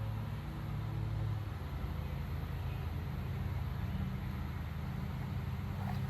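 A low, steady engine hum, its pitch shifting slightly about a second and a half in.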